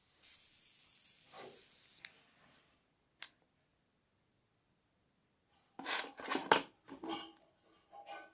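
Small wooden sticks being handled and stacked: a hiss lasting about two seconds at the start, a single click a little later, then a quick cluster of wooden knocks and clatters.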